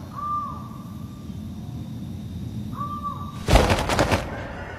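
A bird calling twice, each call a short clear note that rises and falls. About three and a half seconds in, a quick burst of sharp clattering knocks, the loudest sound.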